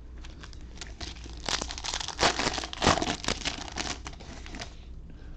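Crinkling and crumpling of a card-pack wrapper being handled, with a little tearing. It starts about a second and a half in and lasts about three seconds.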